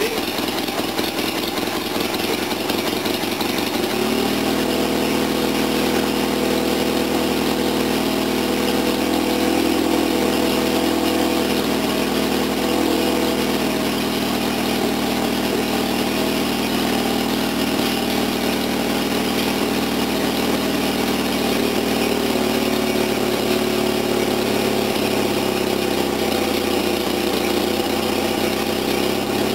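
Toyota 4K four-cylinder engine running on a newly fitted Weber 32/36 DGV carburettor. About four seconds in its note changes and then holds steady, shifting again slightly in the last few seconds.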